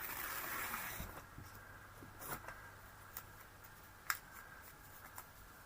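Faint handling of paper and glue at a craft table: a brief rustle in the first second, then a few light taps.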